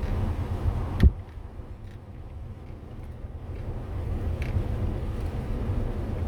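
Motorhome on the road: steady low engine and road rumble, with one sharp knock about a second in.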